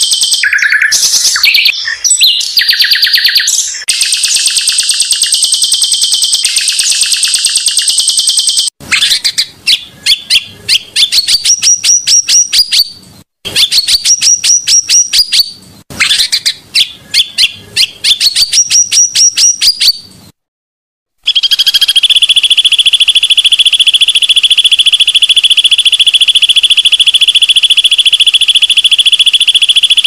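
Looped recording of bird song made of long, very fast rattling trills, with sharp cuts between takes. In the middle come repeated phrases of rapid notes that sweep upward. After a brief silence a little past twenty seconds, one steady high trill runs without a break.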